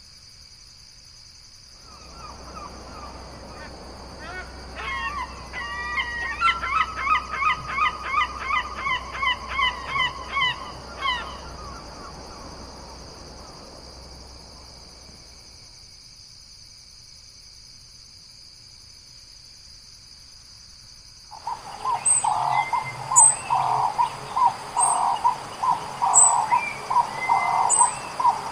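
Bird calls in two bouts: first a run of quick repeated notes for about ten seconds, then after a lull a second bird starts a loud series of evenly repeated calls near the end. A steady high-pitched drone, like insects, runs underneath.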